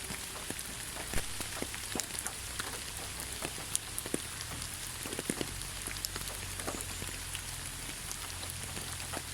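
Steady rain falling on leaves: an even hiss with scattered close drops ticking sharply on the foliage.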